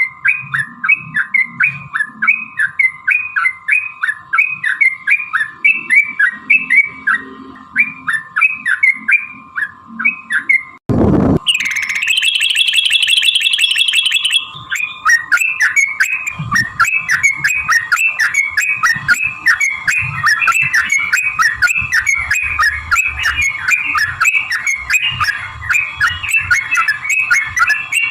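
Yellow-vented bulbuls (trucukan) singing: fast, repeated chattering phrases over a steady tone. A thump and short break come a little before 11 s, then a fast high trill lasts about two seconds before the chatter resumes.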